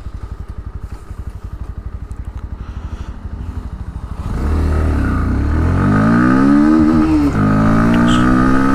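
Bajaj Pulsar NS160's 160cc oil-cooled single-cylinder engine idling low, then opened to full throttle about four seconds in. The revs climb steeply in first gear, drop with an upshift about seven seconds in, and climb again in second.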